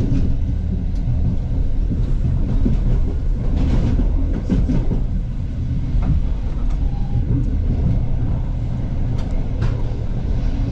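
A regional passenger train running along the track with a steady low rumble, broken by a few short sharp clicks and knocks from the running gear.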